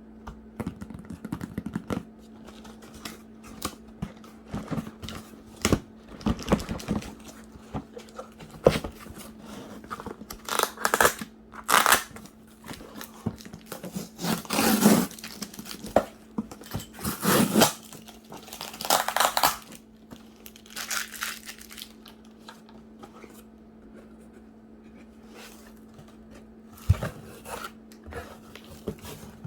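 A parcel being opened and handled by hand: crinkling plastic and paper and tearing, in irregular bursts, some lasting about a second, with small knocks of items being moved. A steady low hum runs underneath.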